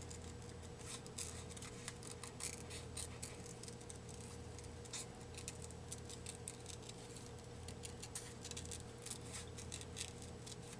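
Scissors cutting paper: many quick, irregular snips, over a faint steady hum.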